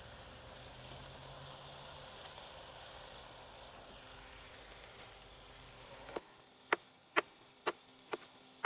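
Onions and sausage sizzling in a cast-iron Dutch oven over hot coals, a steady hiss. About six seconds in it gives way to a knife cutting through mushrooms on a cutting board: five sharp knocks about half a second apart.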